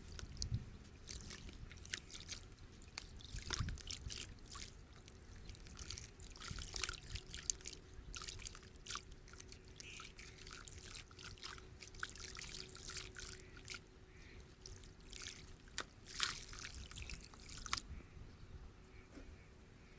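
Dry clumps of dust crumbling, a continuous run of irregular small crackles with soft trickling of falling grains.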